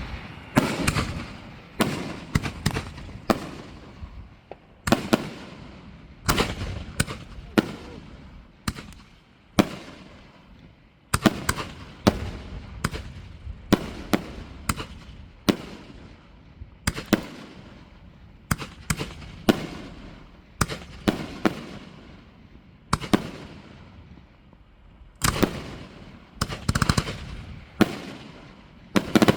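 Fireworks display: a continuous run of sharp bangs, often in quick clusters of two or three, each trailing off in a rolling echo.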